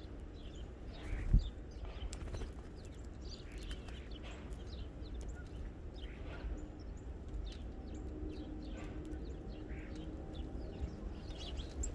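Small birds chirping at a feeder, many short high calls scattered throughout, over a steady low rumble. A single loud thump about a second in.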